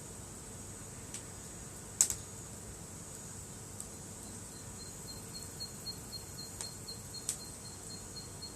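Burning firewood in a campfire gives a sharp pop about two seconds in and a few smaller snaps, over a steady high insect drone. From about four seconds, a quick series of high chirps sounds at roughly four to five a second.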